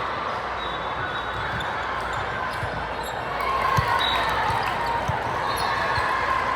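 A basketball bouncing on a gym floor, a few irregular thuds, over a steady background of crowd and player voices.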